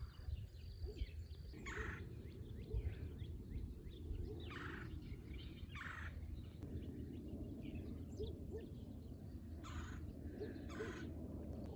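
Birds calling: about six short, harsh calls a second or more apart, with low soft calls and scattered small chirps between them, over a steady low rumble.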